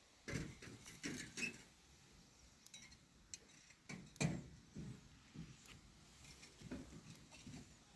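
Faint, irregular scuffing, rustling and light knocks, with the loudest knock about four seconds in.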